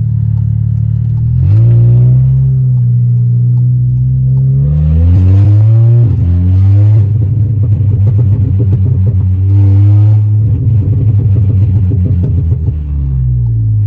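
Stage 3 tuned Volkswagen Golf R's turbocharged four-cylinder accelerating hard, loud. The engine note rises and drops back twice at gear changes, about two and seven seconds in. It then holds a steady, rough, crackling drone.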